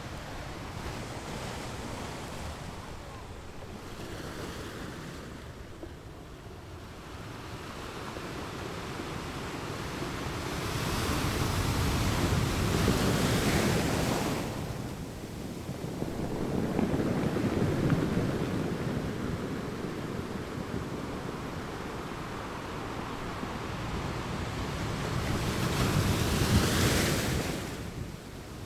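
Ocean surf on a beach: waves break and wash up the shore in slow swells, with three louder breakers about twelve, seventeen and twenty-six seconds in, each rising and then falling away.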